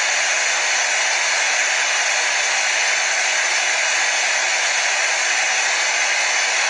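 Hair dryer blowing, a steady even whoosh that does not change, played as white noise for soothing a colicky baby to sleep.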